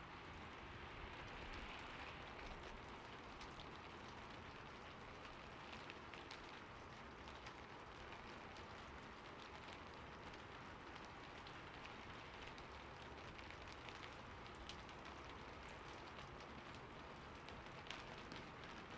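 Steady rain falling on a roof, with individual drops ticking sharply here and there.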